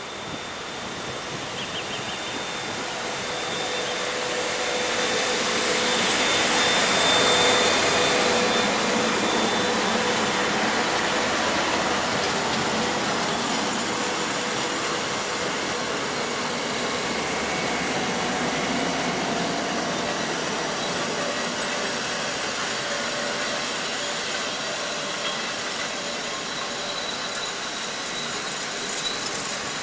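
EP07P electric locomotive hauling passenger coaches along a platform. The running noise builds to its loudest about seven seconds in as the locomotive goes by, then the coaches roll slowly past with a steady rumble of wheels on rail.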